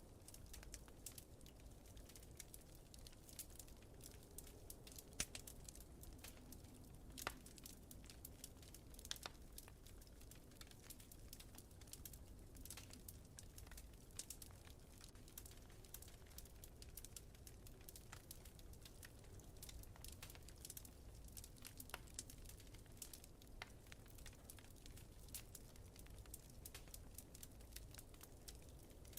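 Wood fire crackling in a fireplace: a steady scatter of small pops and snaps, with a few sharper pops about five, seven and nine seconds in, over a soft low rumble.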